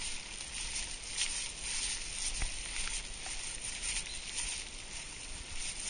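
Rainwater runoff running down a forest trail after a rainstorm: a steady hiss of flowing water, with a few light taps scattered through it.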